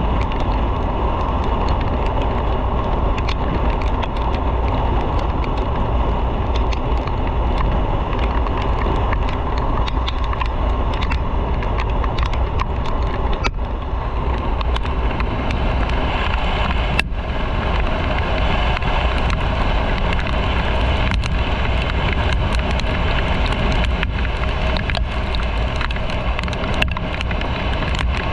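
Motorcycle on the move: steady engine and road noise under a constant rush of wind on the microphone.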